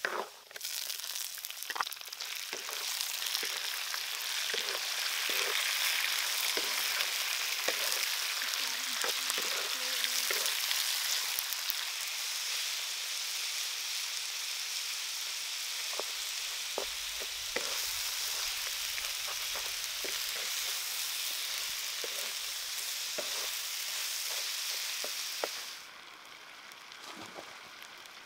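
Hot oil sizzling in an iron wok as chopped garlic and chili fry, then as pieces of frog fry, with scattered clicks of a wooden spatula stirring against the wok. The sizzle drops away sharply about two seconds before the end.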